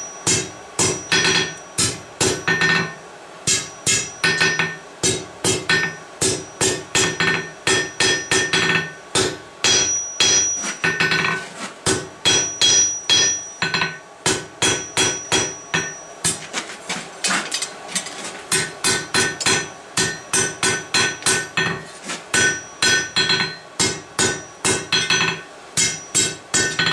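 Blacksmith's hammer striking hot steel on an anvil in a steady run of blows, about two a second, the anvil ringing between strikes, with a brief pause around the middle.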